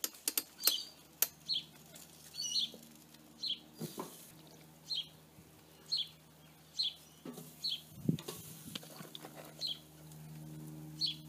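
A small bird chirping over and over, short high chirps about once a second. A few sharp clicks sound near the start, and a low thud comes about eight seconds in.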